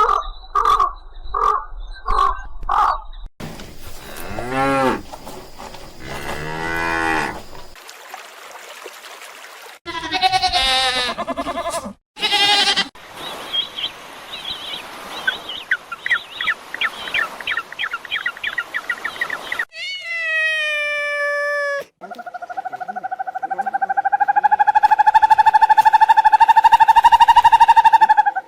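A run of different animal calls, one after another. It opens with six short, evenly spaced calls, then several varied cries. It ends with one long, drawn-out call lasting about six seconds, the loudest in the run.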